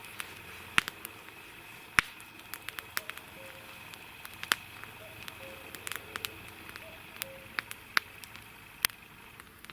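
Irregular sharp clicks and pops, a few much louder than the rest, scattered over a faint steady hiss.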